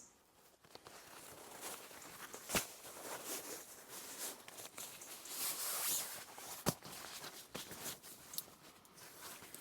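Rustling and shuffling of camping gear being handled, with two sharp knocks about two and a half seconds in and again near seven seconds.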